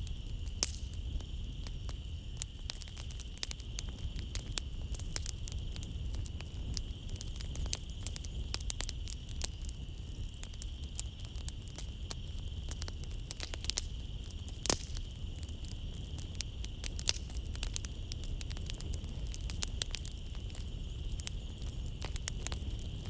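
Wood fire crackling in a fireplace: frequent sharp pops and snaps, the loudest about fifteen seconds in, over a low steady rumble of the burning. A steady high insect trill, like night crickets, runs underneath.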